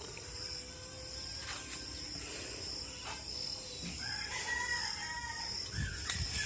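Rooster crowing about four seconds in, over a steady high insect trill.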